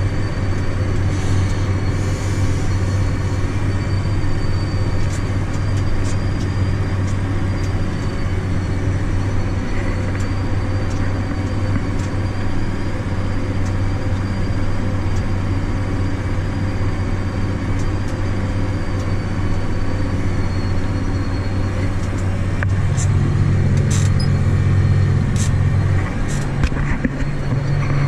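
John Deere tractor with an IVT transmission running steadily while pulling a shank tillage tool: a deep, even engine drone with a faint high whine over it. About 23 seconds in the engine note shifts higher, and a few sharp clicks follow near the end.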